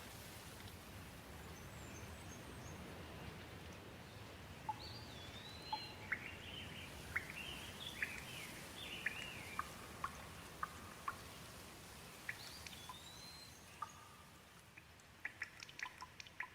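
Light rain falling steadily, with birds calling over it in short chirps, some rising and falling, through the middle. Near the end the rain thins and single drops tick sharply.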